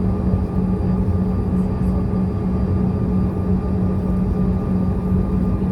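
Bombardier CRJ200's GE CF34 turbofan engines running steadily, heard inside the cabin as a constant hum with one strong steady tone.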